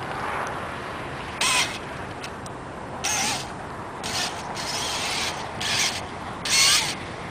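Remote-control truck's motor whirring in short bursts, about six in a few seconds, its pitch wavering up and down in each burst.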